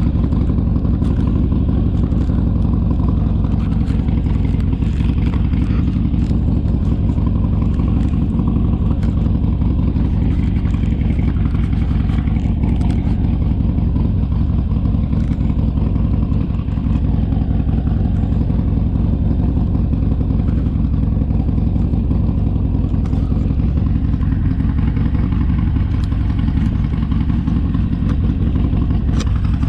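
Harley-Davidson Sportster's air-cooled V-twin engine running steadily under way, with a brief slight dip in level about halfway through.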